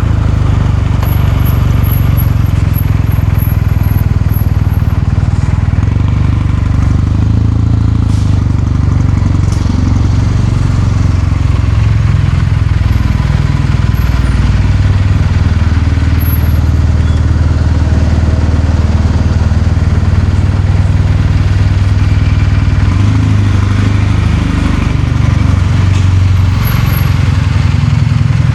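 Kawasaki Meguro K3's air-cooled 773 cc parallel-twin engine running with a steady, deep exhaust note, the pitch and level shifting only slightly.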